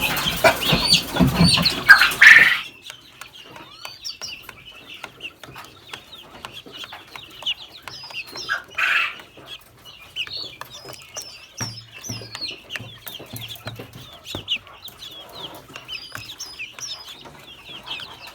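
Many chicks peeping: short, high, downward-hooked calls that keep coming, with a few low hen clucks about two-thirds of the way through. The first two and a half seconds are much louder and closer.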